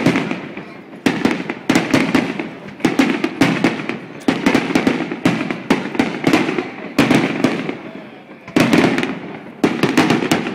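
Aerial fireworks shells bursting overhead: many sharp bangs in quick succession, in clusters every second or so, each trailing off in an echo.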